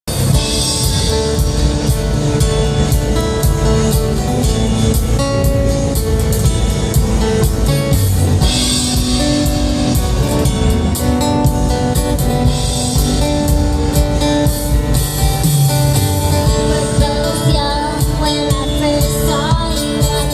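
A young girl singing a song over a band backing of guitar and drum kit.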